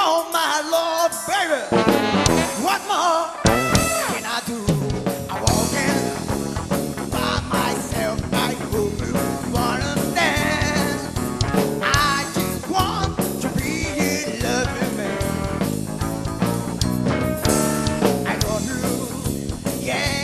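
Blues quartet playing with no lyrics sung. A lead line bends in pitch over sparse backing, then the full band with drum kit comes in about three and a half seconds in and plays on steadily.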